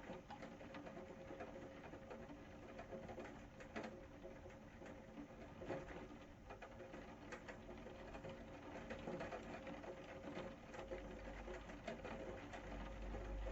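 Rain pattering, a dense crackle of many small drops, with a faint steady hum underneath; a low rumble comes in near the end.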